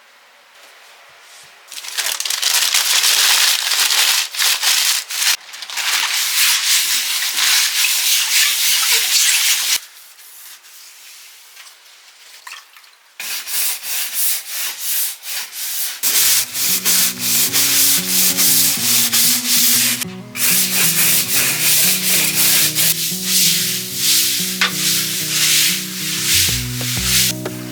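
Hand scrubbing of a surface during household cleaning: rapid rasping strokes in two long stretches with a short pause between them. Background music comes in about two-thirds of the way through.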